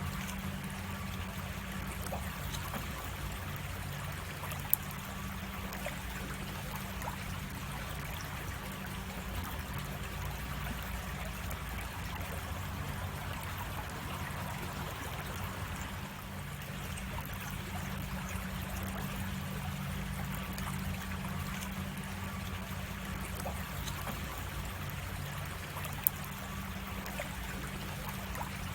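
Creek water flowing and trickling over small cascades in a steady rush. Two brief, sharp clicks stand out, one about five seconds in and one near the end.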